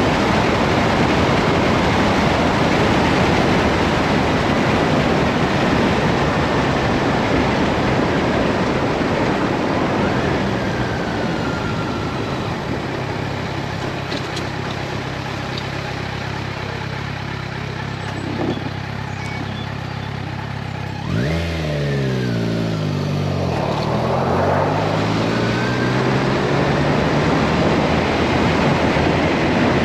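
Motorcycle engine under way with heavy wind rush, easing to a steadier, quieter low-revving hum midway. About two-thirds of the way through, the engine revs climb sharply as it accelerates, and the wind noise builds back up.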